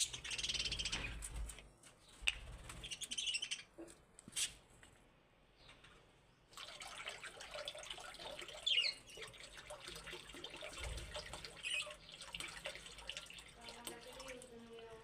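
Budgerigars chirping and chattering, with short, high chirps scattered throughout and a brief lull about five seconds in.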